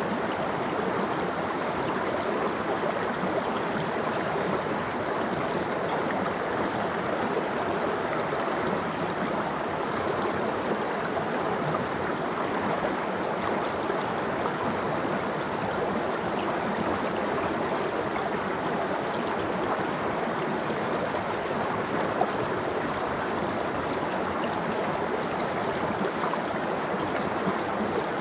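Cold mountain stream flowing steadily over rocks, a continuous babble of rushing water.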